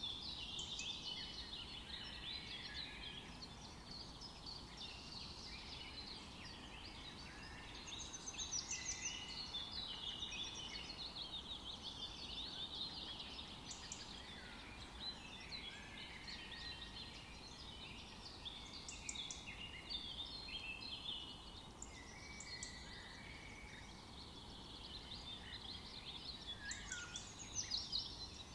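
Small birds chirping: many short, high calls overlapping in a busy, continuous chorus over a faint steady hiss.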